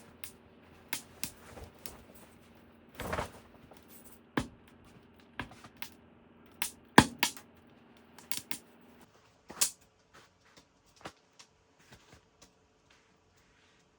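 Scattered sharp clicks and knocks with a brief rustle, as things are handled, over faint background music that stops about nine seconds in.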